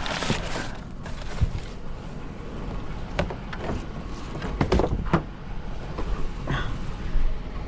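Several sharp knocks and clicks, some in a quick cluster midway through, over a low steady rumble, from scrap being handled.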